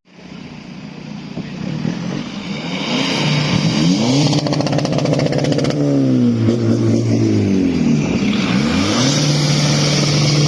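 Car engine revved hard twice: the note builds, climbs, holds high and falls away, with a rapid crackle near the top of the first rev.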